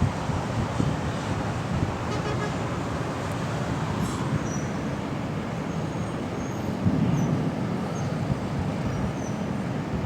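Steady rush of storm wind over city traffic noise, with wind buffeting the microphone in uneven swells.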